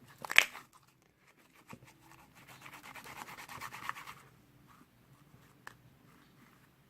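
Slime being handled: a sharp pop about half a second in, then about two seconds of crackly squishing and rubbing.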